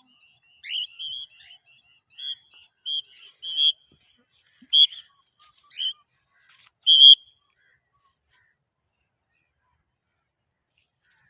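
Cockatiel calling: a run of about a dozen short, shrill whistled calls over several seconds that then stop.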